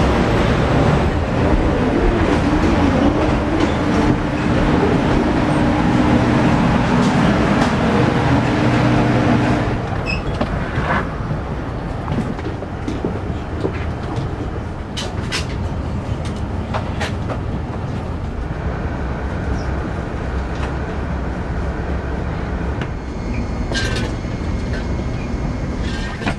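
Airbus A380 cabin noise: a steady rumble of engines and airflow heard from inside the passenger cabin. It is louder, with a low hum, for about the first ten seconds, then settles to a quieter even rumble with a few light clicks.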